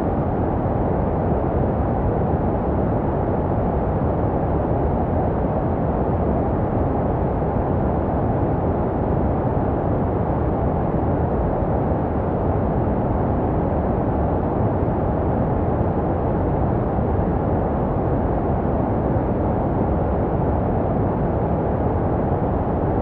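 Steady, unbroken white noise for baby sleep, deep and muffled with little treble, made to resemble the sounds heard inside the womb.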